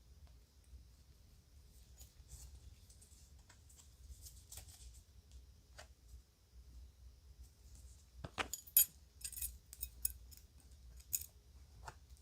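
Small pieces of children's jewelry being handled, with faint rustling, then a run of sharp light clicks and clinks about eight seconds in.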